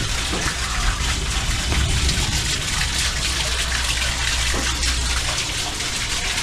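Heavy monsoon rain pouring steadily, with a low rumble underneath.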